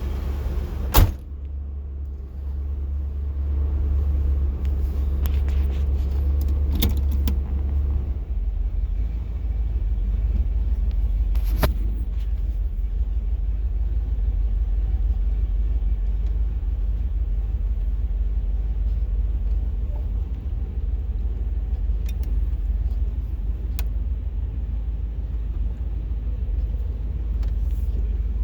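1987 Chevy K5 Blazer's throttle-body-injected V8 idling cold with a slight misfire, the owner's tach jumping with it. There is a sharp knock about a second in, and the low idle note shifts about eight seconds in.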